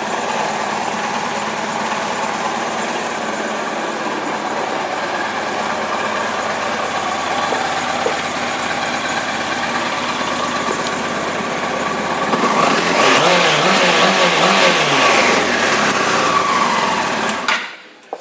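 2000 Yamaha YZF-R1's 998 cc inline-four engine idling steadily, then revved up and down several times about twelve seconds in, louder, before the sound stops suddenly near the end.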